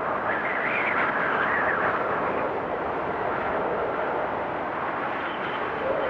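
FPV drone's electric motors and propellers whining over a steady rush of air, the whine's pitch wandering up and down as the throttle changes.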